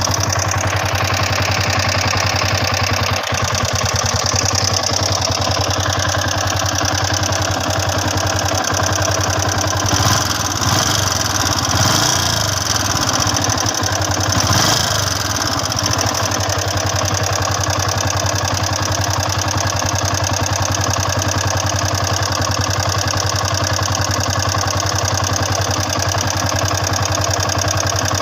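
Yamaha Sniper 150's single-cylinder four-stroke engine idling steadily, with a few short throttle blips that rise and fall in pitch about a third of the way in and around the middle.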